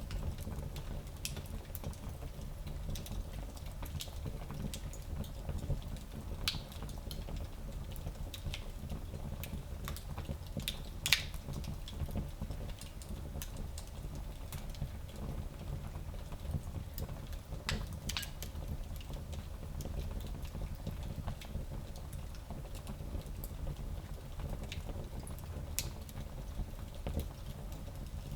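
Fire in a fireplace crackling, with scattered sharp pops, the loudest about eleven seconds in, over a steady low rumble.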